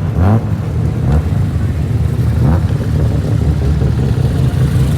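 Car engines running at low revs, a steady low rumble, with brief snatches of voices.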